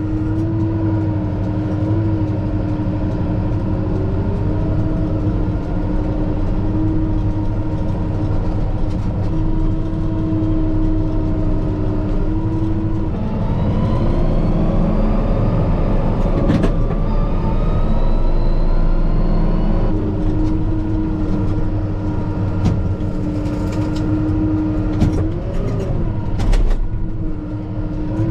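Kubota M5-091 tractor's four-cylinder diesel engine running under load, heard from inside the cab, with a steady whine over it. About 13 seconds in the engine revs up for several seconds, then settles back; a few sharp knocks come through.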